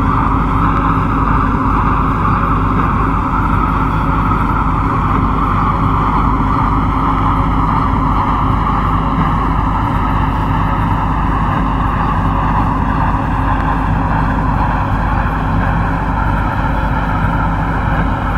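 MTR Kwun Tong Line C-Train running along the track, heard from inside the train: a steady rumble of motors and wheels on rail that drifts slowly lower in pitch, with a faint low thud about every second and a half.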